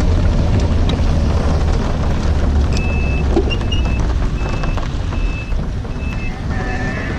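Heavy low rumble of wind buffeting and road noise while riding in a storm. From about three seconds in, a high beep repeats roughly every three-quarters of a second.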